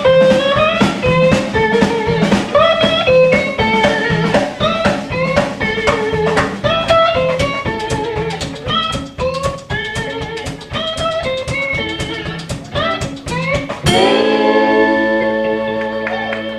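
Live blues-rock band: a fast guitar lead of quick picked notes over drums, ending about fourteen seconds in on one struck final chord that rings on and slowly fades.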